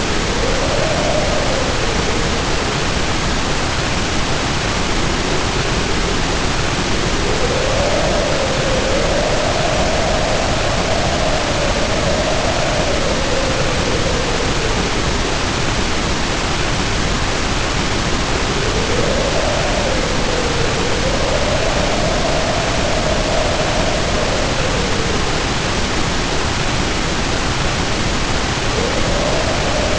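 Heavy rain pouring down steadily under a howling wind, whose moaning pitch rises and falls in slow swells, strongest twice in the middle and again near the end.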